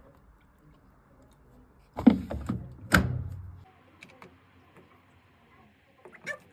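Two heavy thuds about a second apart, each with a short low ringing tail, followed by a few faint clicks.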